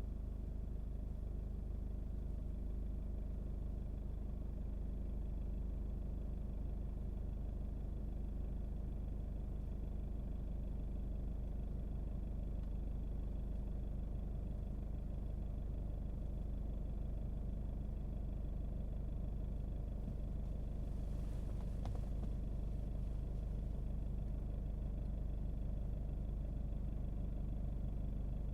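Steady low rumble of a car being driven, engine and road noise heard from inside the cabin, with a brief faint hiss about 21 seconds in.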